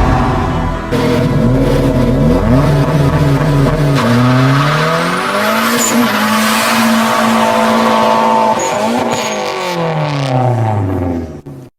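Turbocharged Honda B20 VTEC four-cylinder engine revving up and down repeatedly, holding high revs for a couple of seconds midway before dropping back. The sound cuts off suddenly near the end.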